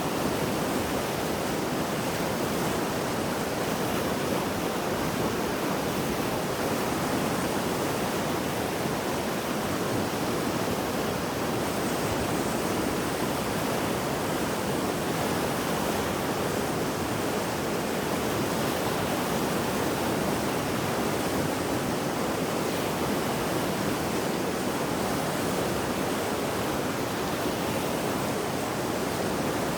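Mountain river in flood after heavy rain, a steady full rushing of fast water.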